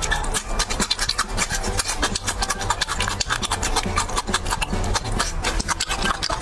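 Raw cabbage being bitten and chewed close to the microphone: a dense run of crisp crunches, several a second.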